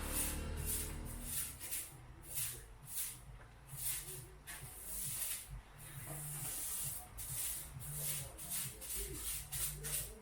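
Chips (fries) deep-frying in hot oil, sizzling in uneven bursts.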